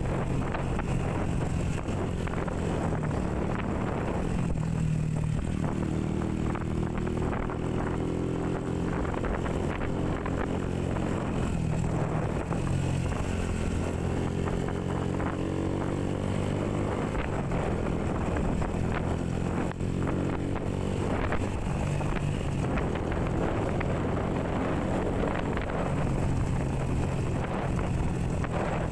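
Honda CB motorcycle engine running under way, its pitch rising and falling as the speed changes, with wind buffeting the microphone.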